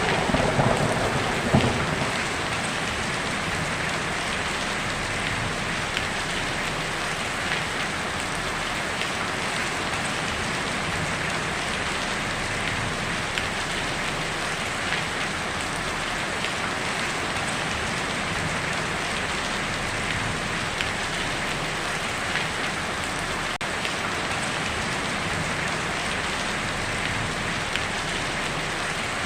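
Heavy rain drumming steadily on a tin roof, an even dense hiss. The tail of a thunderclap dies away in the first two seconds.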